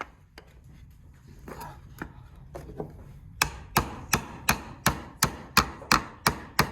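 Hammer driving a nail into wood: a few light taps to set the nail, then about ten steady, sharp blows at roughly three a second from halfway through.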